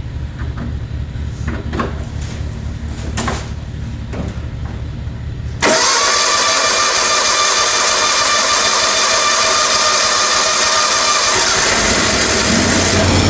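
John Deere riding mower engine on a cold start: a low, steady pulsing of cranking for about five and a half seconds, then it catches suddenly and runs loud and steady.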